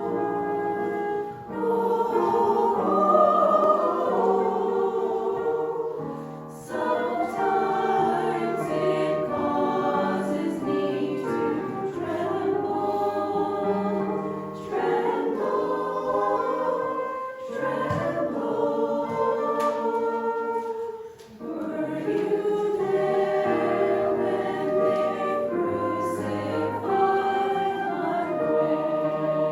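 A choir singing a Christian song in several voice parts, in sung phrases with short pauses between them.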